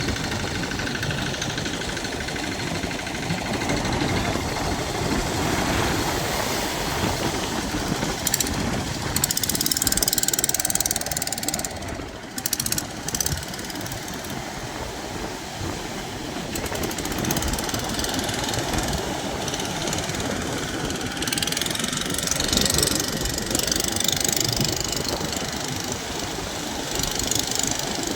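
Boat engine running steadily as the boat gets under way, with a dense low rumble and patches of hiss at times.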